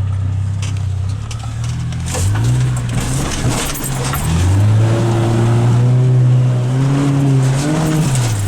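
4x4 off-road vehicle engine under way, its speed rising and falling several times with the throttle, with a few knocks mixed in.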